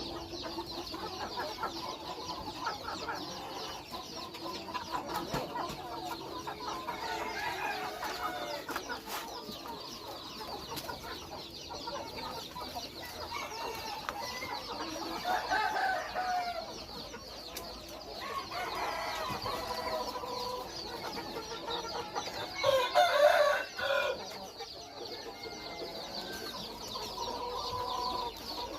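Chickens clucking continually while feeding, with louder calls twice, the loudest about two-thirds of the way through, likely a rooster crowing.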